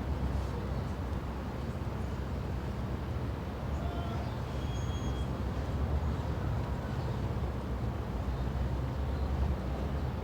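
Steady low rumble of street traffic, with a few faint short high tones about four seconds in.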